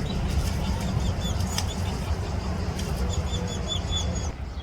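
A small bird chirping in two quick runs of short, repeated high notes, one near the start and one about three seconds in, over a steady low rumble.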